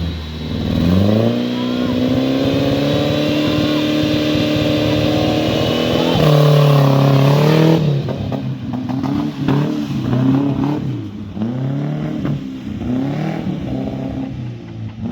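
Off-road 4x4's engine revving hard: the revs climb about a second in and are held high for several seconds, then rise and fall in a series of short blips of the throttle.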